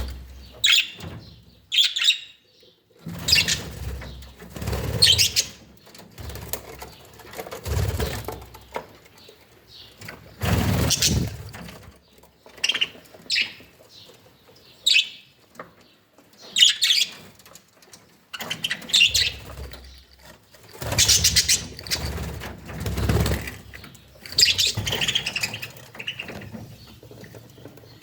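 Caged pet birds such as budgerigars chirping and fluttering their wings, in irregular bursts every second or two.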